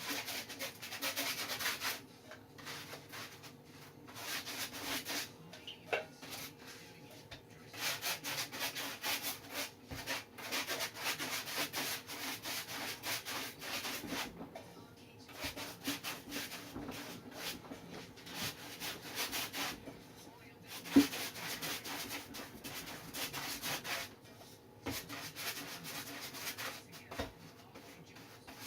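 Repeated rubbing strokes across a surfboard deck, coming in stretches of a few seconds with short pauses between, as the surface is worked over. One sharp knock comes about two-thirds of the way through.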